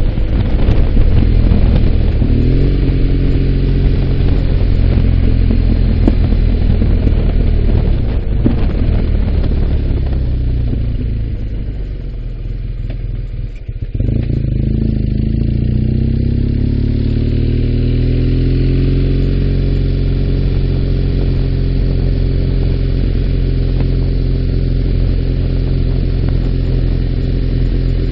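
Motorcycle engine running while riding. It pulls up through the revs early on, eases off and gets quieter for a few seconds in the middle, then picks up suddenly and climbs in pitch again before settling into a steady cruise.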